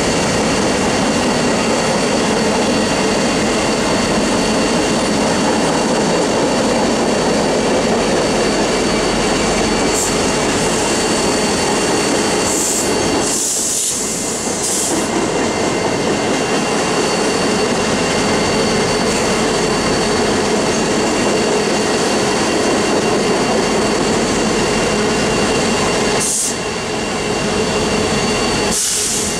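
Freight cars of a long mixed freight train rolling past on the rails, a continuous steady rumble of wheels on track. Short bursts of high wheel squeal come about halfway through and twice near the end.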